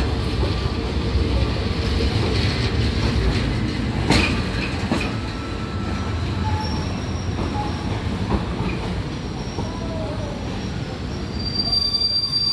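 Train running on the rails: steady rumble and clatter of wheels, with a sharp knock about four seconds in and a high, steady wheel squeal near the end.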